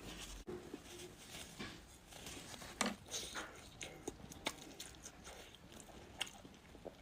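A person chewing food close to the microphone, with wet mouth sounds and a few sharp clicks.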